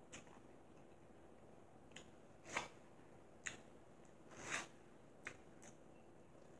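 Faint mouth sounds of corn on the cob being bitten and chewed: a handful of short clicks and smacks, two of them a little longer and louder, over near silence.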